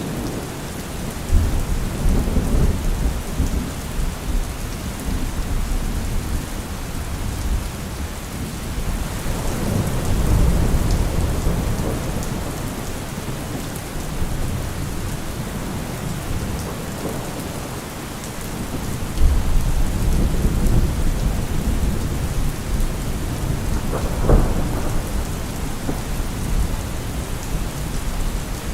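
Heavy rain falling steadily. Deep low rumbles swell up about a second in, again around ten seconds in and again around twenty seconds in, and a short sharp sound stands out a few seconds before the end.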